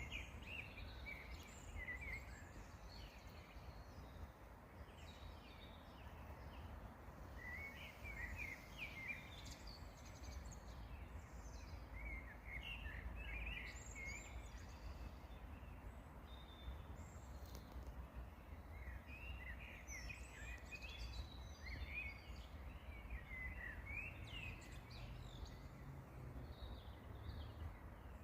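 Songbirds singing in bouts of quick, high chirping phrases, with pauses between the bouts, over a steady low background rumble.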